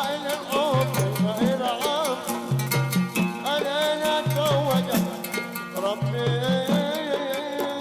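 Arabic band music: a wavering, ornamented melody over a repeating bass figure and a steady, busy percussion beat.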